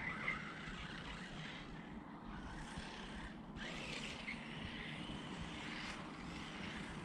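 Arrma Notorious RC truck's brushless electric motor heard faintly as a thin whine that comes and goes, over a steady outdoor hiss.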